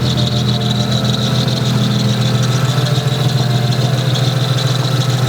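Toyota 2JZ inline-six engine idling steadily, its low note shifting slightly about halfway through, with a steady high whine above it.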